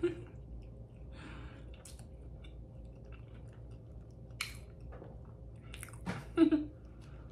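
Close-miked chewing of a mouthful of breakfast food, with scattered wet mouth clicks and a short closed-mouth "mm" hum about six seconds in.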